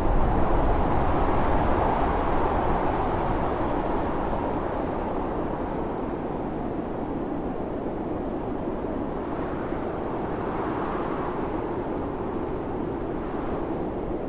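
Blizzard wind howling steadily, swelling in a strong gust near the start and again about ten seconds in.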